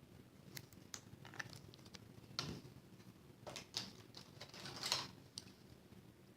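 Scattered light clicks and short rustles of small punched cardstock pieces being handled and pressed together on a work table, a few sharper ticks among them.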